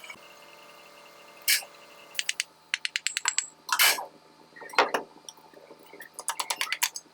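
Hand tools working on the metal parts of a Mercedes-Benz Actros air brake compressor as it is taken apart: several runs of quick ratchet-like clicks and a few sharp metal knocks and clinks.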